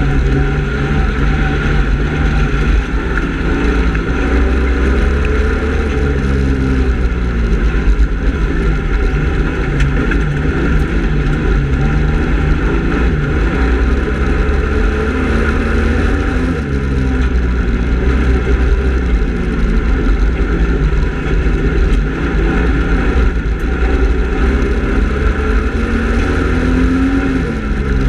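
Speedway race car engine running hard at full race speed, its note rising and falling repeatedly as the throttle comes off and back on.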